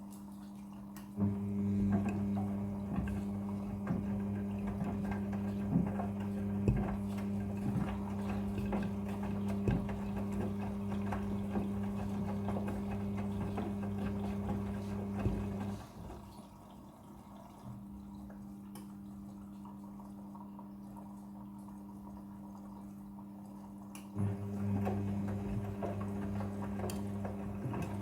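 Front-loading washing machine running its wash cycle: the drum motor hums steadily while water and laundry slosh and knock inside. It stops about 16 s in and starts again about 8 seconds later, the on-off tumbling pattern of a wash cycle.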